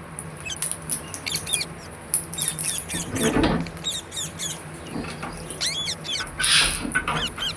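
Pet green parrot chirping and whistling in short rising-and-falling calls, with two louder, harsh squawks about three seconds and six and a half seconds in.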